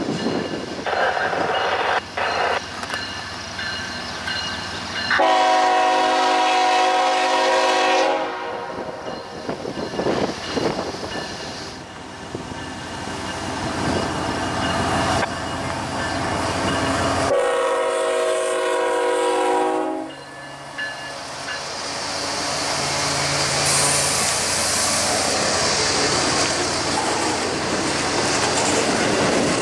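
A passing train sounds its air horn in two long blasts, each about three seconds, several seconds apart, over the steady rumble and clatter of wheels on rail. Near the end a rushing hiss rises.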